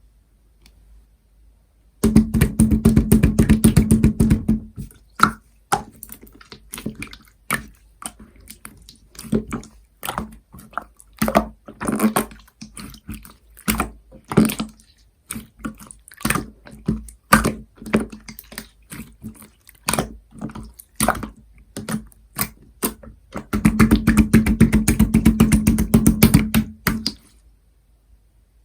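Slime being squished and pressed by hand: wet clicks and squelches. Two spells of fast, continuous crackling about three seconds long, one shortly after the start and one near the end.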